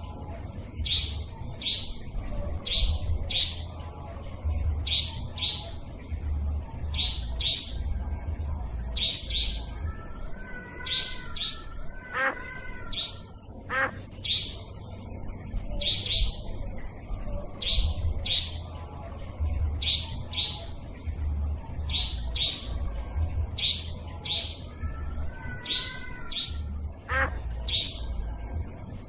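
Nightjar calls on a looped bird-lure recording: short, high, sharp notes in quick pairs, about one pair a second, over a steady low hum. A few lower, wavering calls from another bird come in around the middle and again near the end.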